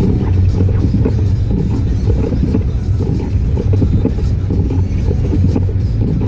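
A loud, steady low rumble with no distinct strokes or tones.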